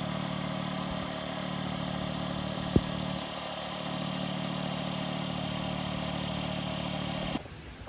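Electric air pump running with a steady hum as it inflates an inflatable kayak, with one sharp click about three seconds in; the pump cuts off suddenly near the end.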